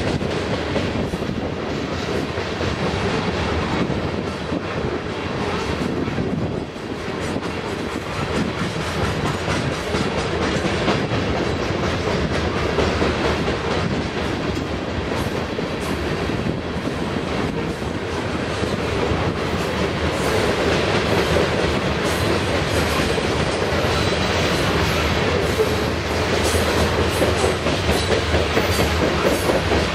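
Cars of a Canadian National ore train rolling past, with a steady clickety-clack of wheels over the rail joints that grows a little louder in the second half.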